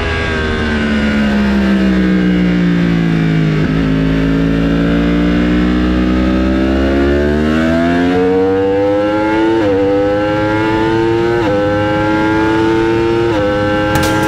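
A racing motorcycle engine at high revs. The revs fall over the first few seconds, as when braking into a corner, then climb again under full throttle, with three quick upshifts in the second half.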